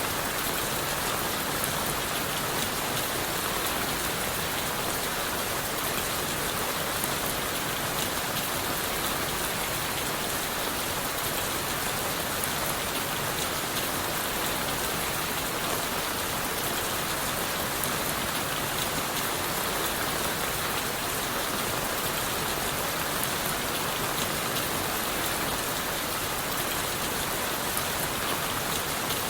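Steady rain falling on leaves and wood, an even hiss with scattered drop ticks.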